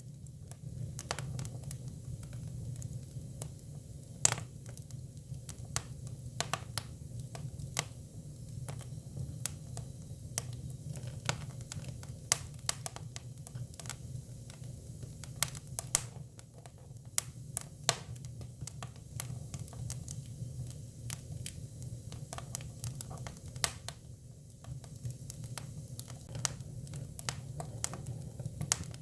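Hinoki cypress firewood burning, crackling with irregular sharp pops and snaps over a steady low background.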